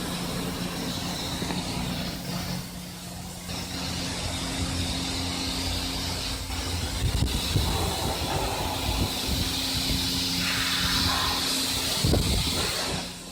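Self-serve car wash pressure washer running with a steady hum and a hiss of spraying water that grows louder midway and again near the end.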